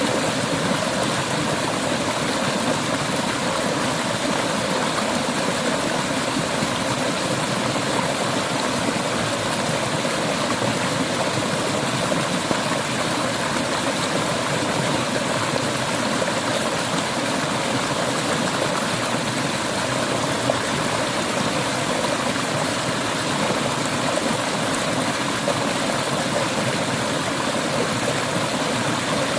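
A mountain river flowing steadily, making an even, unbroken rushing sound.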